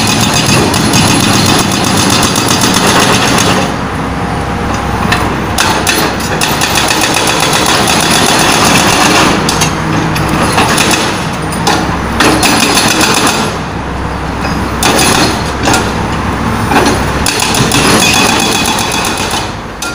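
Excavator-mounted hydraulic breaker hammering rapidly into asphalt over the excavator's running engine, stopping briefly a few times.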